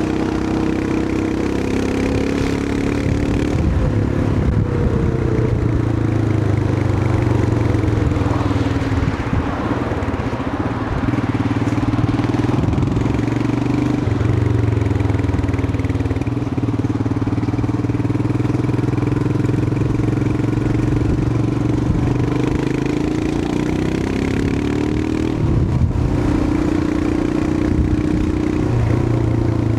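Royal Enfield Himalayan 411's air-cooled single-cylinder engine running on the move, its note rising and falling several times with the throttle and dropping sharply about 25 seconds in. A steady rush of wind and road noise lies over it.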